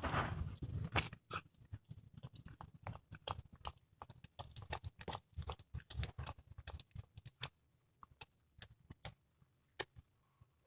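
A cat chewing and crunching on a squirrel it has caught: rapid, irregular sharp crunches of bone and flesh, with a low purr underneath that fades out after about seven seconds.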